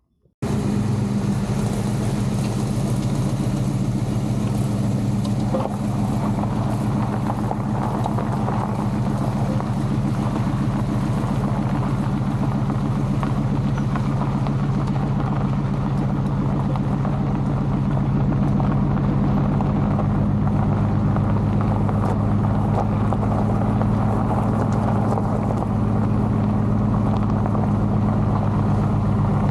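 A 383 stroker V8 with headers in a 1939 Chevrolet Master Deluxe, running steadily with a deep, even drone. It cuts in suddenly about half a second in.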